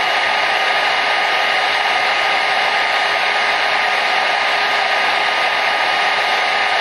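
Hair dryer running steadily: an even, unchanging rush of air with a faint motor whine.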